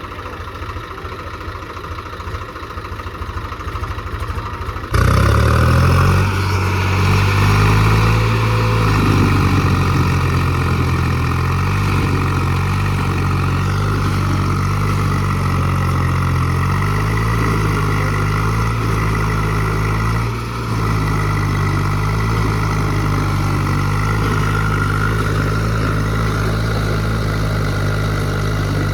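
Tractor diesel engine running: a low pulsing idle at first, then about five seconds in a sudden jump to a louder, steady, higher engine note that holds, with a brief dip about twenty seconds in.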